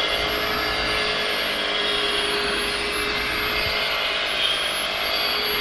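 Electric polishing buffer running steadily on a metal aircraft exhaust stack, held on lightly. It makes an even whirring noise over a steady drone.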